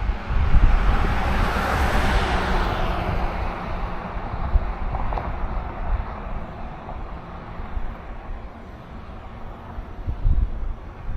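A car passing on the road, its tyre noise swelling to a peak about two seconds in and then fading away, over low wind buffeting on the microphone.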